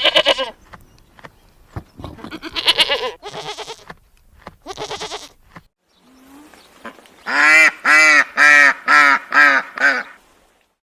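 A series of loud animal calls: a few separate cries, then a quick run of short, evenly spaced pitched calls, about three a second, which is the loudest part.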